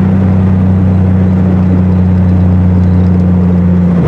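Triumph TR6 straight-six running through a Monza exhaust with steel resonators, holding a steady note at constant revs while cruising under light load.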